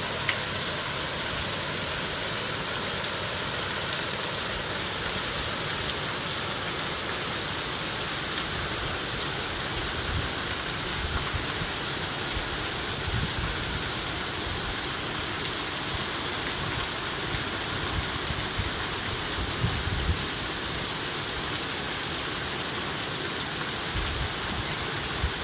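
Steady rain falling, an even hiss, with occasional brief low rumbles.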